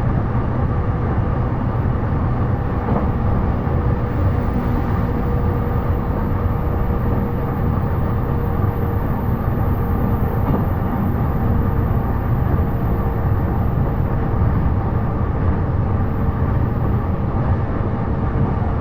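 Inside the cabin of a JR East E233 series electric commuter train running steadily at speed: a loud, even rumble of wheels on rail and running gear, with a faint steady whine over it.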